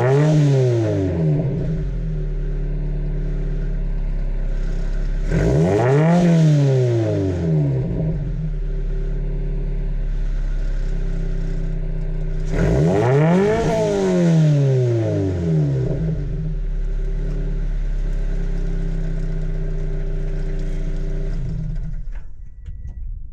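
Flat-four boxer engine of a Subaru BRZ/Scion FR-S/Toyota 86 breathing through a Corsa cat-back exhaust, idling steadily and blipped three times, with each rev rising sharply in pitch and falling straight back to idle. The sound fades away near the end.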